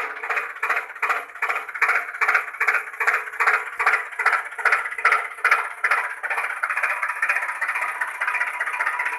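Engine-like chugging at about three pulses a second. It settles into a steadier run after about six seconds.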